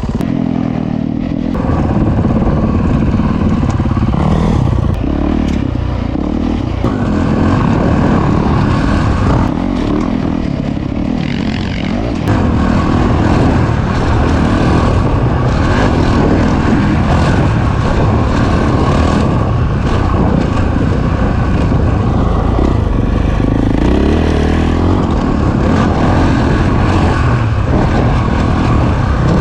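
Single-cylinder four-stroke engine of a Honda CRF450R motocross bike running under load as it is ridden, its pitch rising and falling with the throttle, a little louder from about two seconds in and again from about twelve seconds in.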